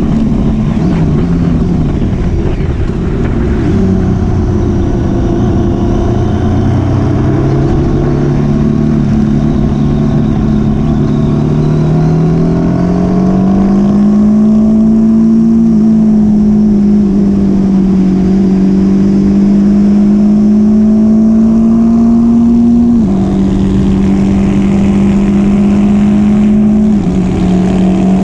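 Motorcycle engine running steadily on the move, its pitch rising gradually around the middle and then dropping suddenly twice near the end, as with upshifts.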